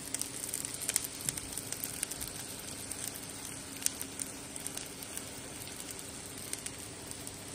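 Breaded fish cakes shallow-frying in hot oil in a non-stick pan: a steady sizzle with many small pops and crackles.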